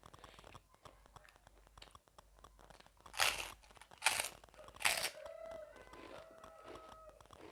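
Close-miked eating of crunchy puffed-rice chatpate, with soft crunching and chewing throughout. About halfway through come three loud, hissing bursts roughly a second apart, and after them faint held tones that step in pitch.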